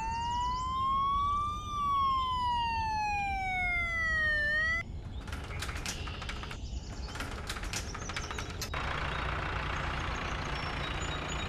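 Cartoon ambulance siren wailing, one slow glide up in pitch and back down, cut off abruptly about five seconds in. It is followed by a rattling, clicking clatter and then a steady noisy hiss with a low hum.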